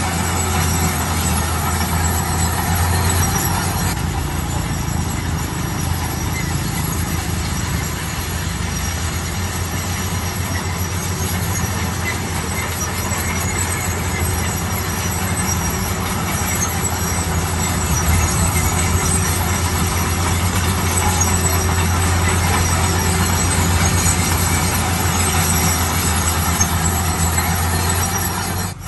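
Heavy construction machine running steadily: a low engine hum with high squeaks over it.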